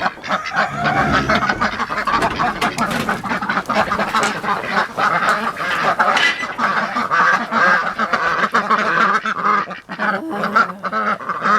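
A flock of domestic ducks (Pekin, Rouen, Cayuga and Silver Appleyard) quacking loudly and continuously, with many calls overlapping.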